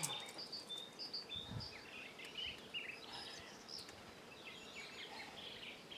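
Small songbirds chirping, many short, high repeated notes from several birds overlapping, with a brief low rumble about a second and a half in.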